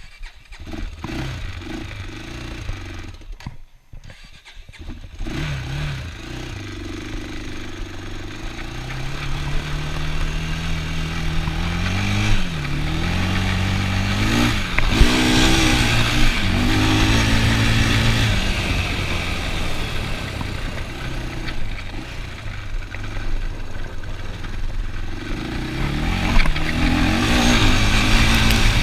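ATV engine running and pulling away under throttle, its pitch climbing from about five seconds in, dropping and climbing again twice as it shifts through gears, then holding steadier at speed.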